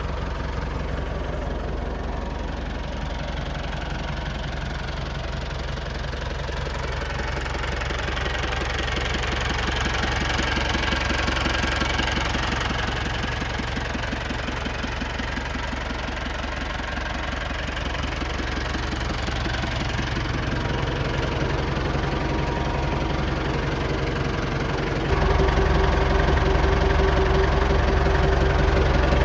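International 674 tractor's four-cylinder diesel engine running steadily at idle. About 25 seconds in it suddenly gets louder and a steady whine joins it.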